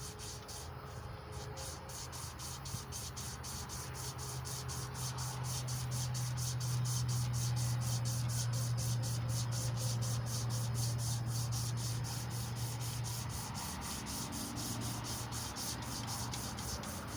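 Emery cloth rubbing back and forth over a small-block Chevy 350 crankshaft journal, a steady sanding rasp as the journal is polished. A low steady hum runs alongside, loudest through the middle.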